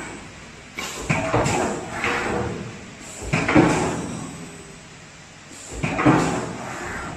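Sheet-metal forming machinery of a water heater outer shell line running: three bouts of metal clanking and sliding strokes, the loudest about halfway through, with short lulls between.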